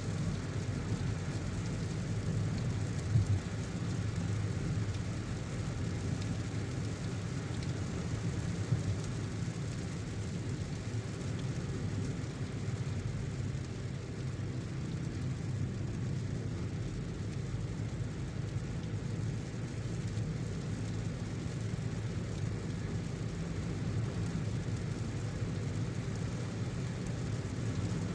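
Steady low road-and-engine drone of a car driving in the rain, with two brief knocks in the first ten seconds.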